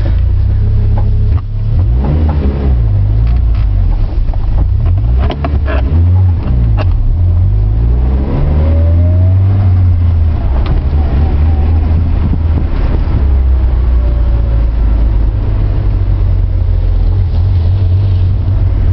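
Mitsubishi Lancer Evolution IX's turbocharged inline-four engine heard from inside the cabin while driving: a steady low drone. The pitch rises under acceleration about eight seconds in.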